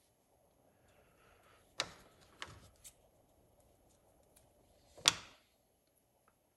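A few sharp knocks of small objects being handled and set down on a hard surface, three close together about two seconds in and the loudest one about five seconds in.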